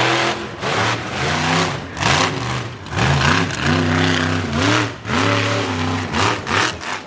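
Monster truck engine revving in repeated bursts, its pitch climbing and falling again with each blip of the throttle.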